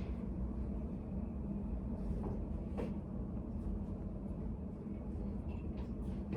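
Study cafe room ambience: a steady low hum with a few faint, light clicks, once a little under three seconds in and a couple more near the end.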